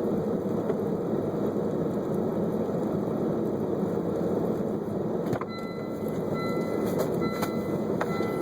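A car's engine running with a steady low rumble. About five seconds in, a few short faint tones and clicks join it.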